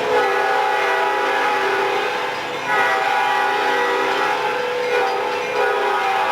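Diesel locomotive's multi-chime air horn sounding a chord in repeated blasts: two long, a short, then another long, the pattern of a grade-crossing signal.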